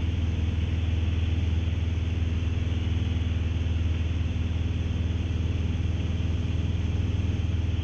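Steady, unbroken drone of a Mooney single-engine piston airplane's engine and propeller in level flight, a deep low hum under an even rush of noise.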